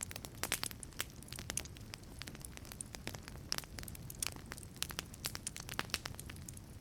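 Wood fire burning in a wood-fired pizza oven: irregular sharp crackles and pops of the burning wood over a steady low rumble of the flames.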